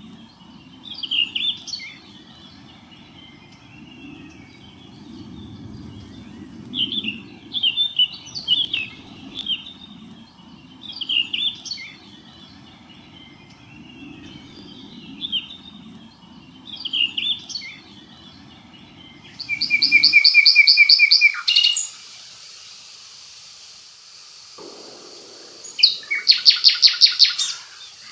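Songbirds singing in short phrases every couple of seconds over a low steady background noise. About two-thirds of the way through, the background drops away and a louder song of fast, evenly repeated notes comes in twice.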